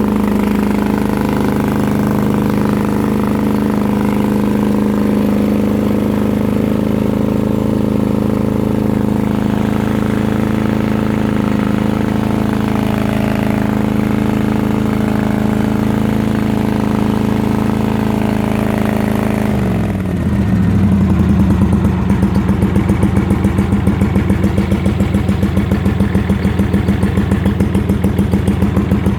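Yard-Man lawn tractor engine running steadily while it warms up after a cold start. About two-thirds of the way through its speed drops, and it settles into slower running with distinct pulses.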